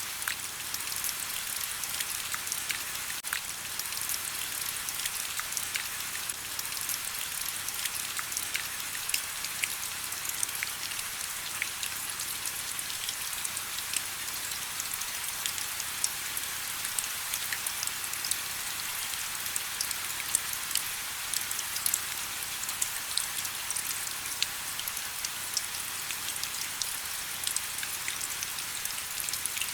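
Steady rain: an even high hiss with many separate drops standing out as sharp ticks, and very little low sound.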